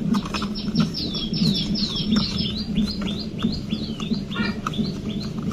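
A bird calling: a quick run of high whistled notes, each falling in pitch, about five a second, slowing and thinning out after about two seconds.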